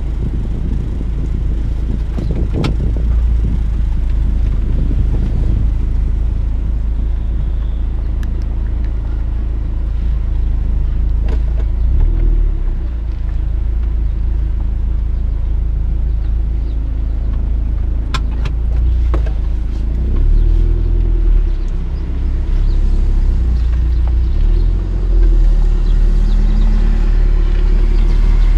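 A motor vehicle driving along: a steady low rumble of engine and road noise, with a few short sharp clicks or knocks.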